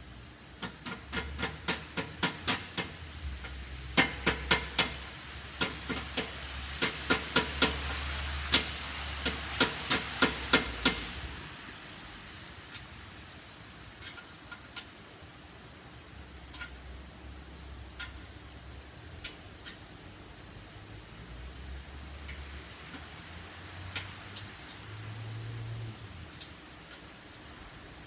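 Repeated sharp metal knocks on a 1982 Honda CM450E's stuck exhaust as it is hit to free it from the bike. A rapid run of strikes, two or three a second, stops about eleven seconds in, leaving only a few scattered taps.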